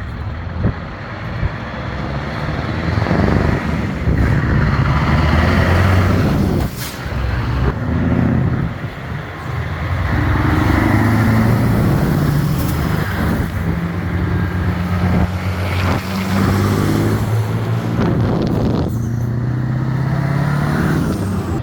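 Vintage truck engines running and driving by, with the engine pitch rising and falling several times as they pull away and change gear.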